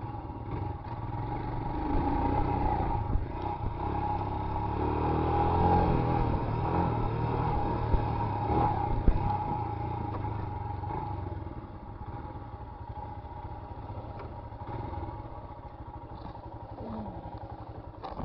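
Royal Enfield Himalayan motorcycle engine running on a dirt track, louder in the first half and getting quieter after about eleven seconds, with two sharp knocks about a second apart, around eight and nine seconds in.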